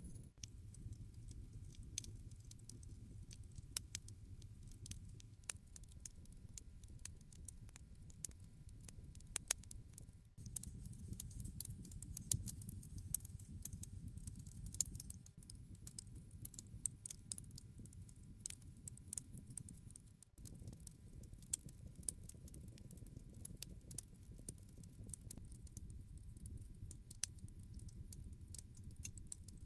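Wood campfire burning, with irregular sharp crackles and pops over a low, steady rumble of the flames.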